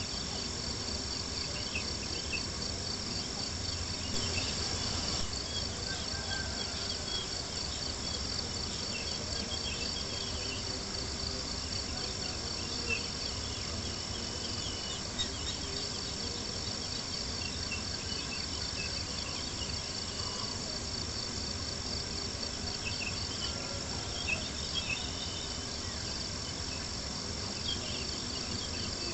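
Crickets chirping steadily in a rapid, even trill, over a low steady rumble. A few small crackles from a campfire come through now and then.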